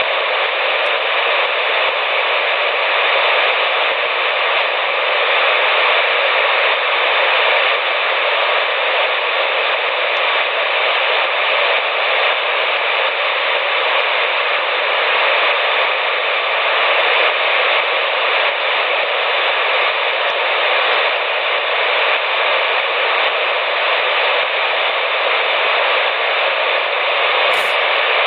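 CB radio receiver putting out a steady hiss of static with no station transmitting, the sound cut off sharply above and below like a radio's narrow audio band. A short click comes near the end.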